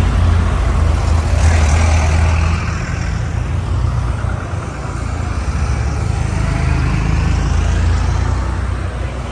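Agricultural tractor's engine running with a deep low drone, easing off a little about two and a half seconds in and building again later.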